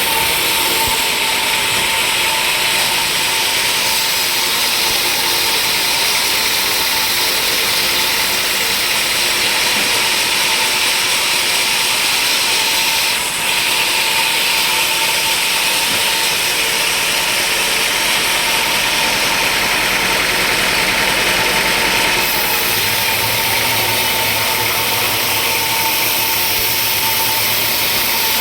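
Sawmill machinery running steadily with a loud, constant whine, dipping for a moment about halfway through.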